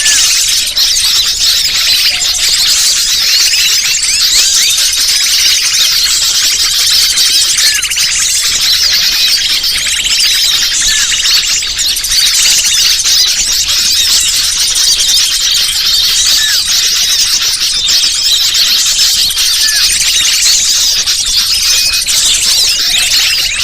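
Dense, unbroken chorus of many small birds chirping and twittering over one another: a bird-lure (pikat) recording played to draw wild birds in.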